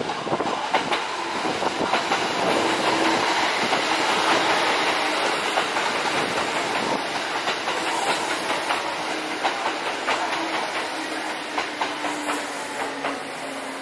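Kintetsu electric train running past on the neighbouring track: a steady rumble with its wheels clacking over rail joints and points, loudest a few seconds in and easing off toward the end.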